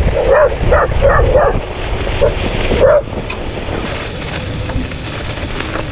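A dog barking in a quick run of short, high barks, then twice more a second or so later, over a loud low rumble that drops away about three seconds in.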